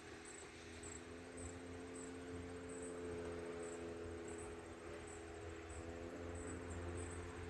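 Insects chirping in a steady rhythm, about one and a half high chirps a second, over a faint low rumble and a steady distant engine-like drone.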